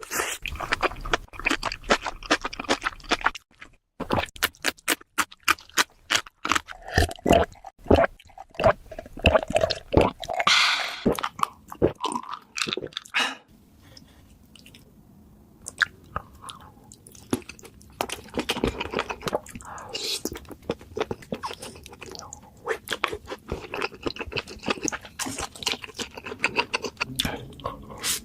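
Close-miked crunching and chewing of crisp food in a mukbang: rapid runs of sharp crackling bites and chews, easing off for a couple of seconds about halfway through before picking up again.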